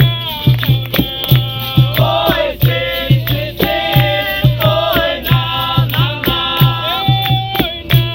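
Capoeira roda music: a steady drum beat under chanted singing, with the bending, twanging tones of a berimbau.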